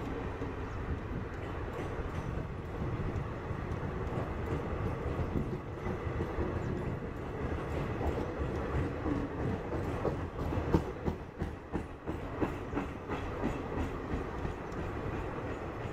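Indian Railways passenger coaches rolling past: a steady rumble of wheels on rail, with a run of sharp clickety-clack knocks as wheelsets cross rail joints, loudest about halfway through.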